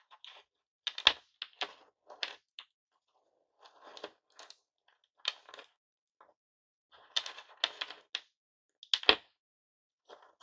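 Pieces of broken hard-candy lollipop clicking and tapping against each other and a hard surface in irregular bursts, with two heavier knocks, one about a second in and one near the end.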